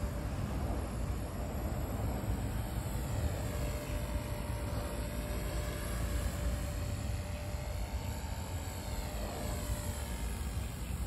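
V950 electric remote-control helicopter in flight, its motor and rotor whine rising and falling in pitch as it moves about.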